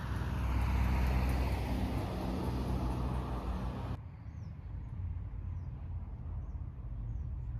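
A car going by on the road, its tyre and engine noise swelling about a second in and then cutting off suddenly about four seconds in. A quieter outdoor background follows, with a few faint bird chirps.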